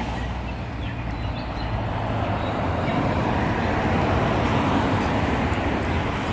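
Steady engine and ride noise heard from inside a moving vehicle: an even rumble with a low hum, and no words over it.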